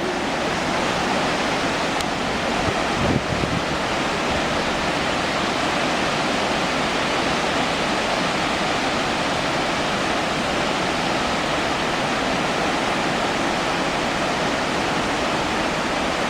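Khone Phapheng Falls on the Mekong River: a large waterfall's steady, dense rush of crashing water, with a brief low thump about three seconds in.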